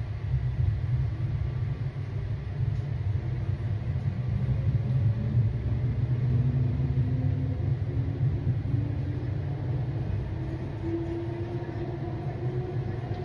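PATCO rapid-transit train heard from inside the car, pulling away and picking up speed. A heavy low rumble swells in the first second, and a faint whine from the traction motors rises slowly in pitch through the second half.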